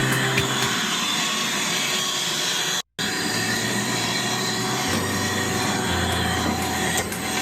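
A vacuum running steadily with an even rushing sound, cutting out completely for a moment about three seconds in. Low music notes sit faintly underneath.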